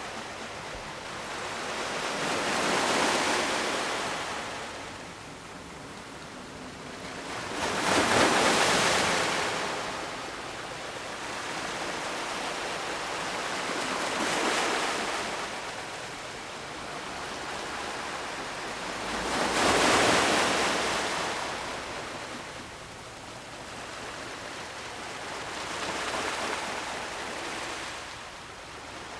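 Ocean surf washing onto a shore: five waves rise and fall as swells of hiss, one about every six seconds, the second and fourth the loudest.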